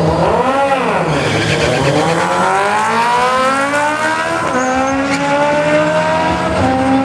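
Suzuki Hayabusa motorcycle engine accelerating hard down a drag strip. Its revs swing up and back down right at the launch, then climb steadily through the gears, the pitch dropping at an upshift about four and a half seconds in and again near the end.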